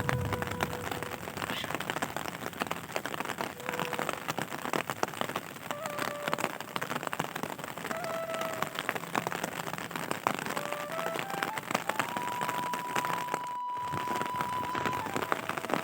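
Steady rain falling, many drops pattering on surfaces. Faint short tones sound now and then over it, one held for about three seconds about twelve seconds in.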